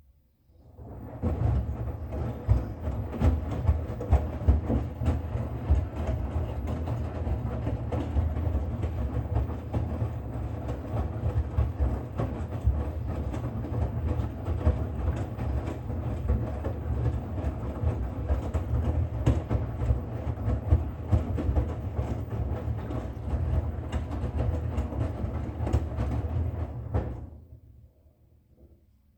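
Bosch Serie 6 washing machine running: a steady low rumble with a constant clatter of small rattles. It starts about a second in and stops fairly quickly near the end.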